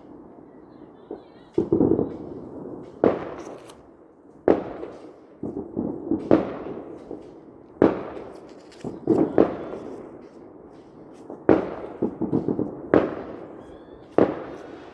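Fireworks exploding one after another, sharp bangs about every second and a half, each trailing off in echo.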